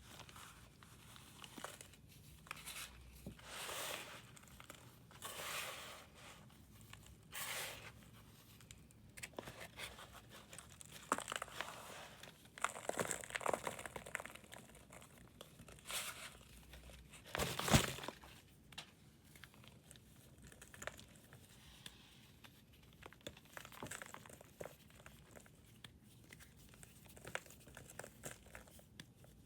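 Blocks of pressed powder being crumbled and shaved: irregular gritty scraping and crunching strokes, each about a second long, with one sharper crunch, the loudest, about eighteen seconds in.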